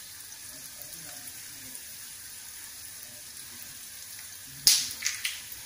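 Oil sizzling steadily in a nonstick pan around slices of elephant foot yam (senai kilangu) shallow-frying, with one sharp click about four and a half seconds in and a couple of fainter ones after it.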